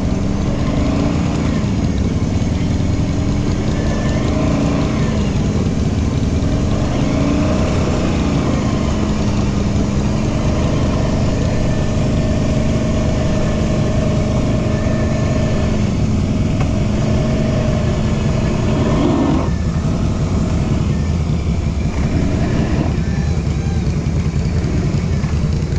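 Off-road vehicle engine running steadily, its pitch wavering up and down, then dropping sharply about twenty seconds in.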